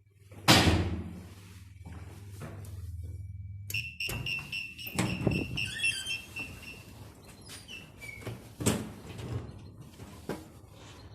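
MLZ passenger lift working: a loud clunk about half a second in, then a low steady motor hum for about three seconds, followed by a high steady tone and several more clunks from the lift's doors and machinery.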